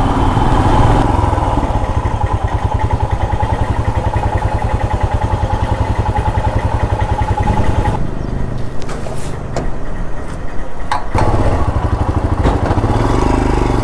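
Royal Enfield Himalayan's single-cylinder engine running while under way, a steady pulsing note. About eight seconds in the note drops away for roughly three seconds, as if the throttle is eased, then picks up again.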